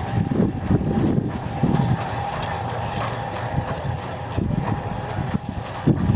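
Strong wind buffeting the microphone: a low rushing noise that rises and falls in gusts.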